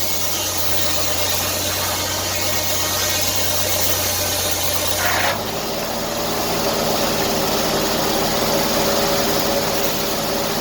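An engine running steadily at idle, its note changing abruptly about five seconds in.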